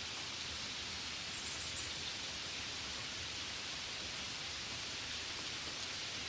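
Gentle steady rain, an even hiss without distinct separate drops.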